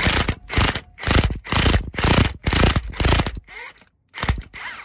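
Power tool, most likely an impact wrench, driving the centre bolt of a harmonic-balancer puller in a quick series of short bursts, about two a second with a brief pause near the end, to draw the crankshaft pulley off a GM 4.3 L V6.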